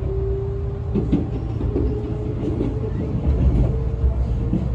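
Running noise inside a Tobu 200-series limited express EMU at speed: a steady low rumble of the train on the rails, with a whine that rises slowly in pitch and a few rail-joint clacks about a second in and near the end.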